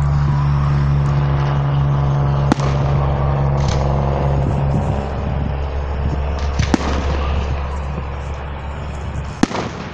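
Fireworks display: rockets going up and bursting, with three sharp bangs standing out, the last near the end. A steady low hum runs underneath and stops near the end.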